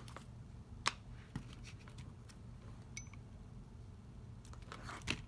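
A few light clicks and taps of paper-craft pieces and tools being handled on a desk: one near the start, another about a second in, and a small cluster near the end, over a low steady hum.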